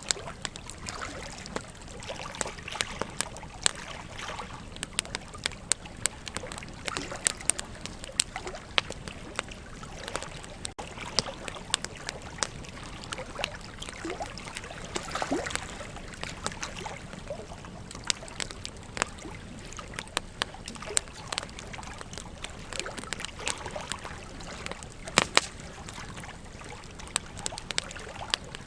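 Burning wood crackling and popping irregularly over the steady rush of a flowing river, with a pair of sharper pops about 25 seconds in.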